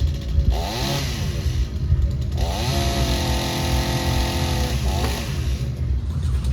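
Two-stroke chainsaw blipped briefly to high revs, then held at full throttle for a couple of seconds before dropping back to idle.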